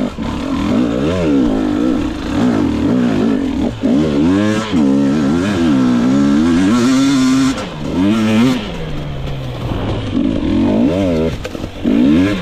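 2022 GasGas EX 250 two-stroke dirt bike engine revving up and down over and over as the throttle is worked on and off, with a brief higher hold around the middle.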